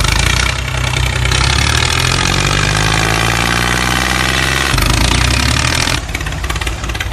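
An engine running, its pitch rising steadily from about a second in as it revs, then changing abruptly near the end.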